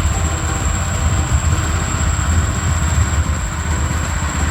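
Ride-on lawnmower's small engine running steadily, with a low, rapid beat.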